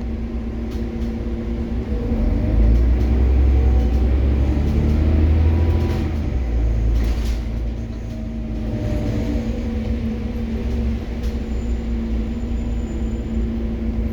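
Scania OmniCity city bus running, its engine note rising and falling as it changes speed, with a heavier low rumble for a few seconds about two seconds in.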